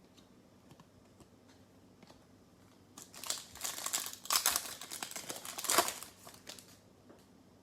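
Crinkling and tearing of a plastic trading-card pack wrapper, lasting about three and a half seconds and starting about three seconds in, after a few faint clicks.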